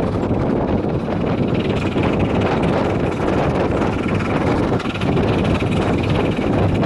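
A 15-inch-gauge Ravenglass and Eskdale Railway train running along the line, heard from an open carriage: a steady rumble of wheels on rail mixed with wind buffeting the microphone.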